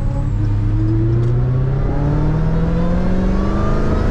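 Dodge Charger Hellcat's supercharged 6.2-litre V8 accelerating hard through an open window, its pitch climbing steadily with supercharger whine.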